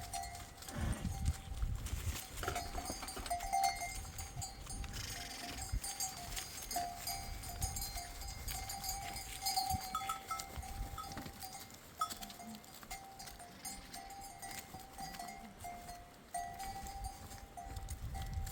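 A flock of goats and sheep with a bell ringing steadily, a high, even tone that breaks off and comes back again and again.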